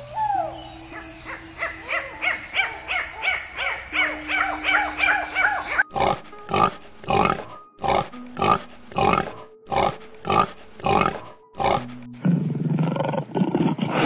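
Ring-tailed lemur calls in a quick run of short cries, about three a second. From about six seconds in a pig grunts in a steady series, about two grunts a second. Near the end a lion begins to roar.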